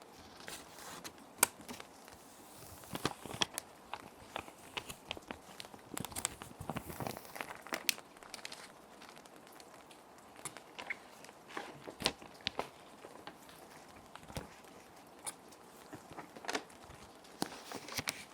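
Plastic sheet protectors crinkling and crackling as paper sheets are slid in and the sleeves are handled, in irregular bursts, busiest in the middle and again near the end. A steady soft rain track runs underneath.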